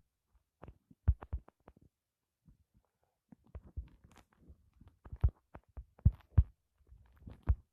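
A series of short, irregularly spaced thumps and knocks, some with a sharp click on top, loudest in the second half.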